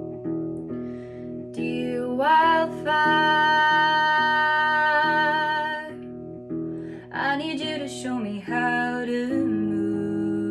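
Acoustic guitar playing a steady pattern of picked notes under a woman's singing voice. About two seconds in, the voice slides up into one long held note. A shorter phrase with sliding pitch follows about seven seconds in.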